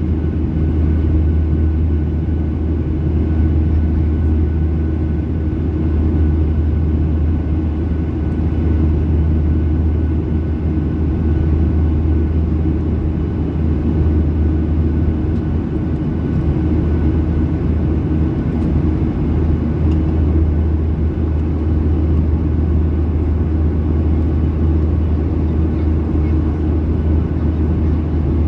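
Steady in-flight cabin noise of a Boeing 737-800: a constant low rumble of the jet engines and airflow, with a faint steady whine above it.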